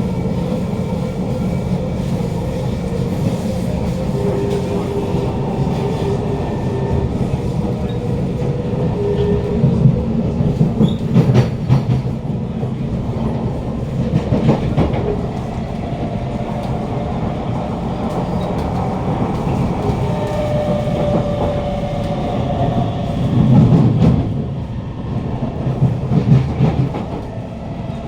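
Interior of a Kawasaki C151 metro train running, with the whine of its GTO-VVVF traction motors heard as faint steady tones that shift in pitch. Wheels clatter over the rails under a steady rumble, louder about ten to fifteen seconds in and again near the end.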